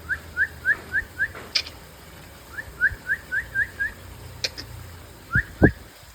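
A small pet bird gives runs of short, rising chirps, about four a second, in three bursts. Two sharp clicks come between the bursts, and two low thumps near the end are the loudest sounds.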